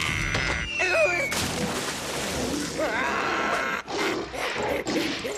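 Cartoon soundtrack of music and comic sound effects with wordless vocal noises. About a second in comes a short, slightly falling whistle, followed by a noisy rush.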